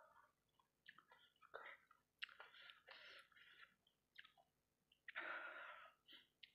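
Close-miked chewing of sauce-coated fried rice balls: soft, irregular wet mouth clicks and smacks, with a louder burst of chewing about five seconds in.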